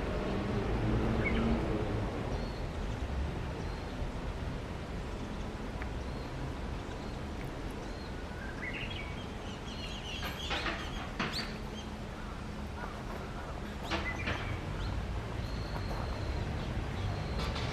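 Japanese bush warbler singing: about halfway through, a whistle rises and holds high, then breaks into a quick flourish of sharp notes, with a few faint short chirps around it. A steady low outdoor rumble runs underneath.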